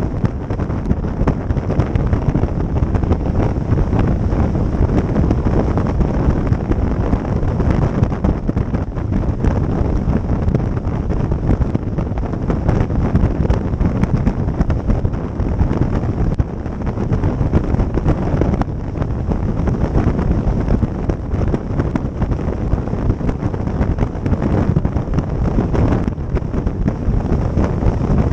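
Wind buffeting the microphone on a boat under way, over the steady rush of the boat's motor and water.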